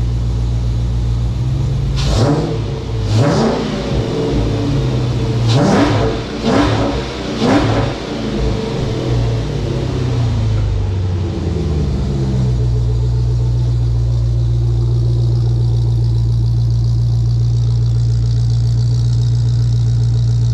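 A Dodge Magnum's 5.7 Hemi V8, running on freshly changed oil, idling. It is revved in several quick blips between about two and eight seconds in, then settles back to a steady idle.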